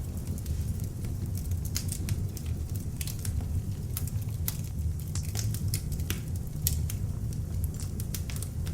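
Beech-wood log fire burning in an open fireplace: a low steady rumble of flame with frequent sharp, irregular crackles and pops from the wood.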